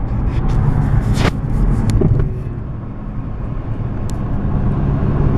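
Car engine and road noise heard from inside a moving car, a steady low hum, with a sharp click just over a second in.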